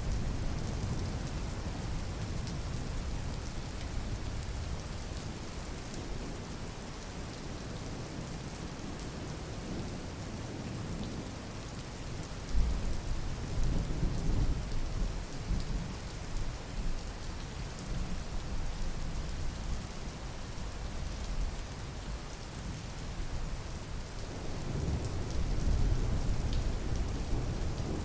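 Steady rain falling, with two longer low rumbles of thunder, one about halfway through and one near the end.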